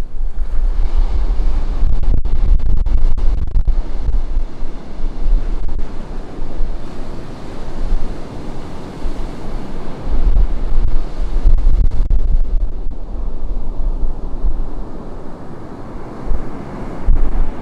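Ocean surf breaking and washing onto a beach in a continuous rushing wash that swells and eases. Wind buffets the microphone in gusts, adding a low rumble.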